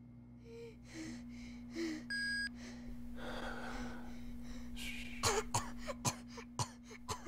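A person's sharp breathy gasps and coughing sounds, several in quick succession in the second half, each falling in pitch. They sit over a steady low electronic hum, with a short electronic beep about two seconds in.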